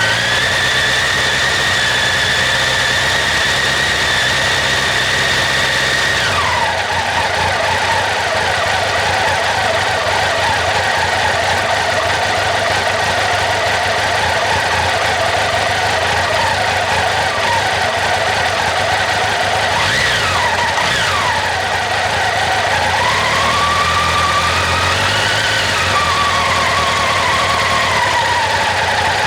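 Honda CB1100SF X-Eleven engine running with a high-pitched squeal that rises and falls in pitch with the revs, dropping about six seconds in and sweeping down and back up again near the end. The squeal comes from the water pump, which the owner says suddenly started making the noise.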